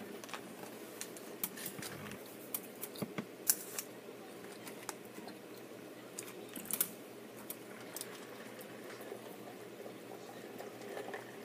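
Close-up chewing of a fried Mac n Cheetos bite: irregular wet mouth clicks and small crunches.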